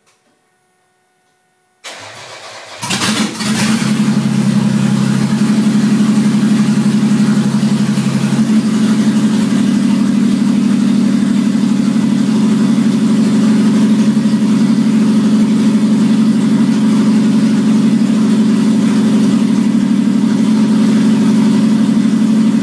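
Rebuilt 1999 Toyota 1MZ 3.0-litre V6 cranking on the starter for about a second, then catching and running on open headers with no exhaust. Its note changes about eight seconds in, then it idles steadily. This is the first start of the freshly rebuilt, swapped engine.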